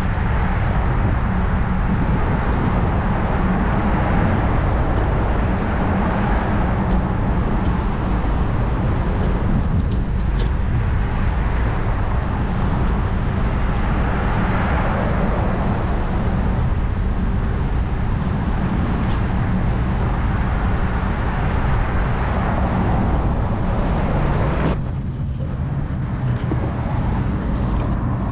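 Steady traffic and road noise heard while riding a bicycle, dominated by a continuous low rumble. A brief high squeal, rising slightly, sounds near the end.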